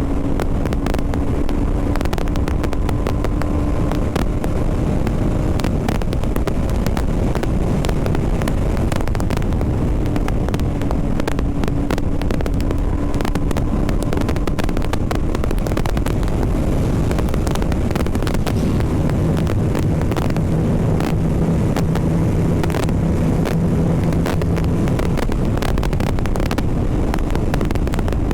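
BMW G 310 RR's single-cylinder engine running steadily under way, with heavy wind rumble on the helmet microphone. The engine note drops lower for several seconds about two-thirds through.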